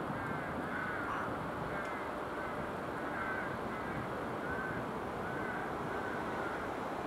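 Steady rolling rumble of a ВЛ40У electric locomotive and its passenger carriages coming slowly into the station. Over it, a short high call repeats more than once a second.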